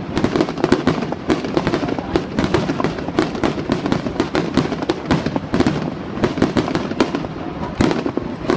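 Fireworks going off in a dense, unbroken crackle of sharp bangs and pops, several a second.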